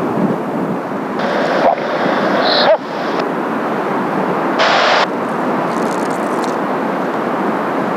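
Kawasaki T-4 jet trainers' twin turbofan engines: a steady rush of jet noise as the formation flies over. Strong wind buffets the microphone, with louder gusts a few times.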